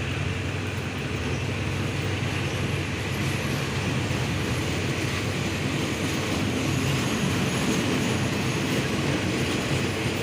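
Diesel train moving on the track: a steady rumble with a low engine hum, growing slightly louder.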